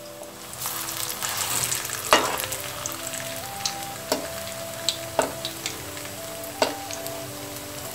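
Soya kebabs frying in hot oil in a pan, a steady sizzle that grows louder about half a second in and peaks around two seconds. A metal utensil knocks against the pan four times as the kebabs are turned.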